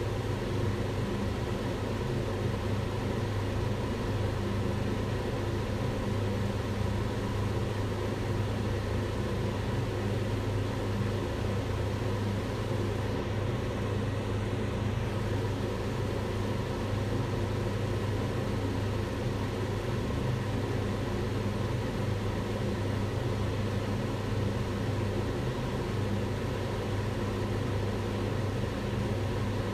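Kitchen range hood fan running steadily, a constant whooshing hum with a low drone and no change in level.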